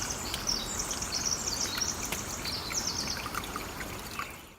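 Audience applauding, a dense patter of claps, with high trilling chirps over it; it dies away and cuts off near the end.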